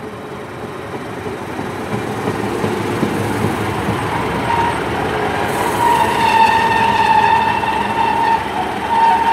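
Class 150 Sprinter diesel multiple unit pulling into the platform, growing louder as it approaches, with a steady high squeal starting about four and a half seconds in as it slows to a stop.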